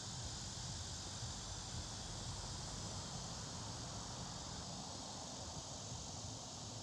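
Insects chirring steadily, a continuous high-pitched night chorus.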